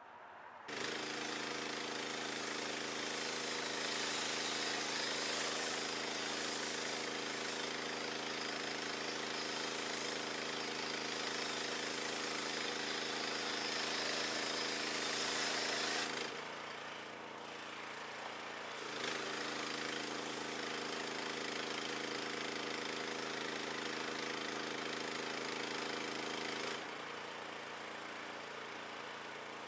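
Pressure washer running, its motor and pump humming steadily under the hiss of the high-pressure water spray. It starts suddenly just under a second in; the spray stops for a few seconds around the middle and again near the end while the machine keeps running.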